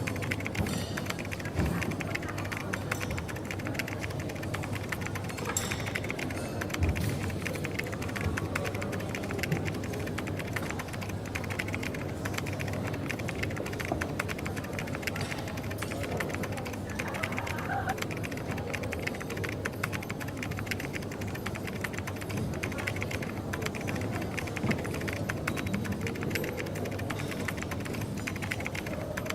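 Coffee shop ambience: continuous rapid clicking of typing on a computer keyboard over a steady low hum of the room.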